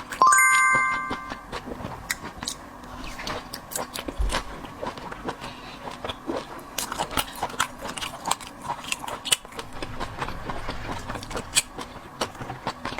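Close-up eating sounds: chewing and crunching of seafood with small clicks and crackles of shells and utensils, and a short ringing clink, like a shell or utensil striking a dish, just after the start.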